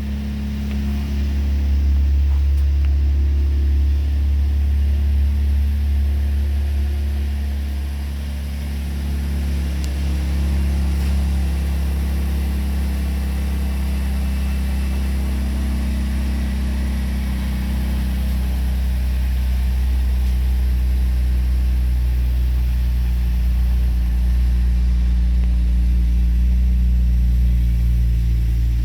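Engine of a 2008 GMC Acadia, a 3.6-litre V6, running steadily at a low, even speed with small swells in loudness.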